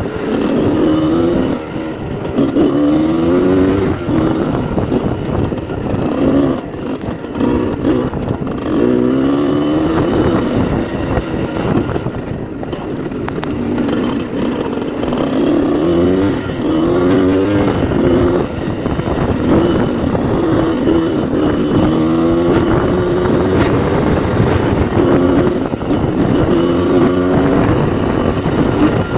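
Dirt bike engine revving up and easing off again and again, its pitch climbing with each burst of throttle.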